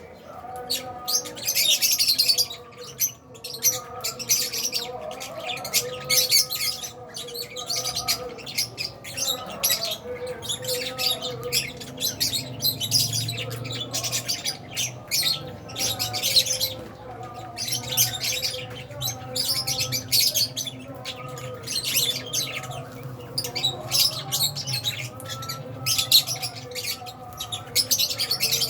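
A colony of Fisher's and albino lovebirds chirping and squawking together: many shrill, overlapping calls with no break, swelling and easing every second or two.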